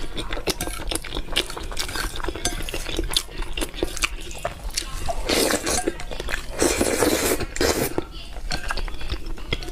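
Close-up eating sounds: utensils clicking and clinking against a dish, with biting and chewing, and two longer noisy stretches a little past the middle.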